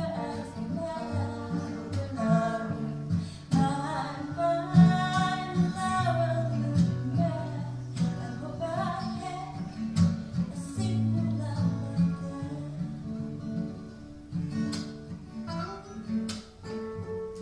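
Acoustic band music: a strummed acoustic guitar over a low sustained bass line, with a gliding, wavering lead melody above it.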